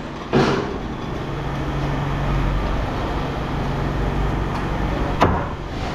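Steady mechanical drone with a low hum, with a brief noise about half a second in and one sharp knock a little after five seconds.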